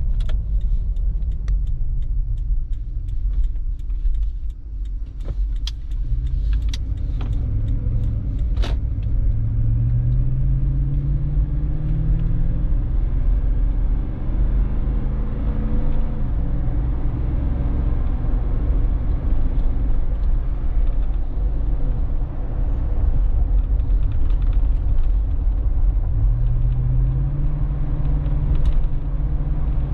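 Cabin sound of a Lexus GX460's 4.6-litre V8 with a Magnaflow muffler, driving over a steady low rumble. The engine note rises as it accelerates about ten seconds in and again near the end, and a few sharp clicks come in the first several seconds.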